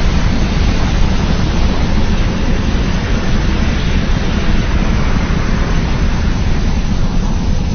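Steady, loud rushing noise with a heavy rumbling low end, a designed sound effect for a giant movie monster.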